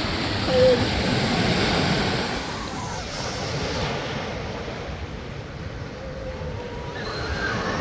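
Ocean surf washing onto a beach, a steady rushing noise that is louder for the first couple of seconds and then eases, with faint voices in the background.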